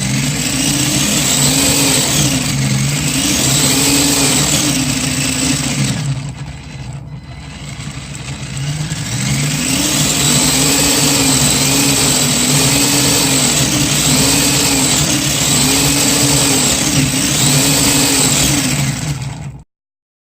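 Motor running with its pitch rising and falling over and over, about once a second. It eases off for a moment partway through, picks up again and cuts off suddenly near the end.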